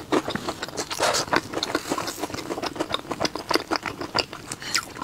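Close-up chewing of a crisp sesame-coated pastry: a rapid, steady run of small crunches and mouth clicks.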